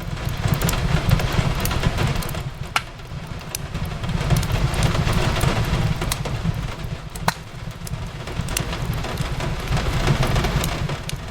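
Steady rain falling over a low rumble, mixed with the crackle of a wood fire: scattered sharp pops, the two loudest about 3 and 7 seconds in.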